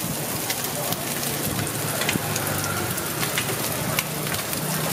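Hot oil sizzling in a large flat wok as egg and shrimp fry, with scattered sharp spattering pops. A faint low hum runs underneath.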